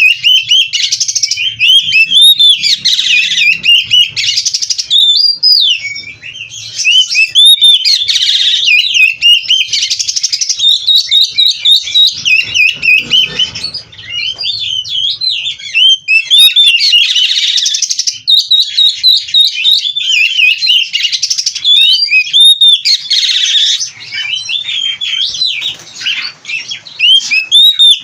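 Oriental magpie-robin (kacer) singing loudly and continuously: rapid, varied whistled notes sliding up and down, mixed with harsher chattering phrases, the full song with mimicked phrases that kacer keepers call 'isian'.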